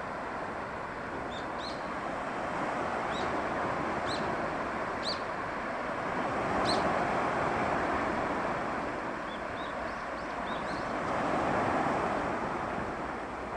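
Small waves of a calm sea washing in as a steady wash that swells twice, with short high bird chirps scattered over it.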